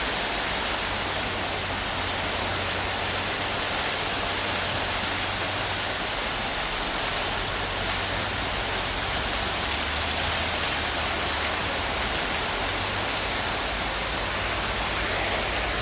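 Fountain water falling and splashing in a steady, even rush, with a faint low hum underneath.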